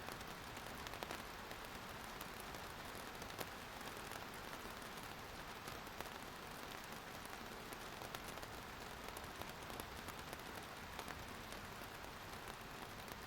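Steady rain, with scattered individual drops ticking sharply on a surface.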